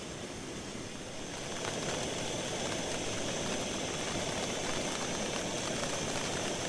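Rain falling on a tarp shelter, growing heavier about a second and a half in and then falling steadily hard.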